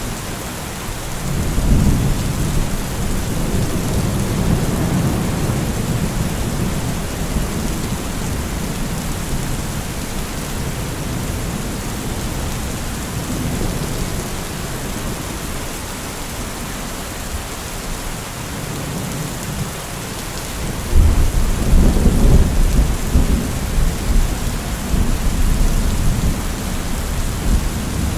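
Heavy rain falling steadily with rolling thunder: a low rumble swells early on and fades, then a louder clap of thunder breaks about 21 seconds in and rumbles on to the end.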